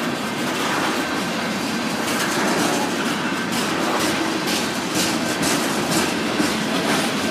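Freight train of tank cars rolling past: a steady rumble of steel wheels on rail, with irregular sharp clacks as the wheels pass over rail joints.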